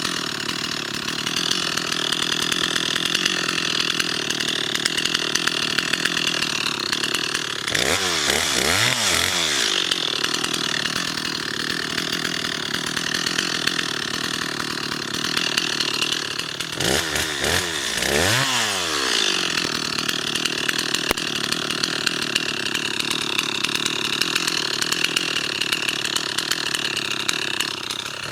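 Bulldozer's diesel engine running steadily under work, with a whooshing shift in its sound around 8 seconds in and again at about 17 to 19 seconds.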